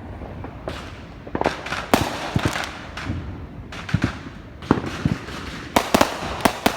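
Consumer fireworks going off: a dozen or so sharp, irregular bangs and crackling pops over a continuous background of further bangs.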